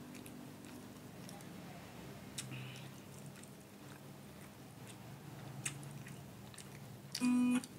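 A person chewing food with the mouth closed, with scattered soft clicks and smacks of chewing. Near the end, guitar music comes in loudly.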